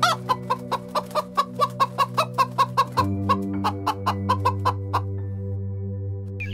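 Domestic hens clucking in a fast, even run of short clucks, about five a second, stopping about five seconds in, over soft background music with long held notes.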